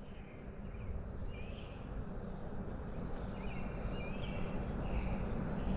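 Small birds chirping in short calls every second or so over a steady low rumble, the whole growing gradually louder.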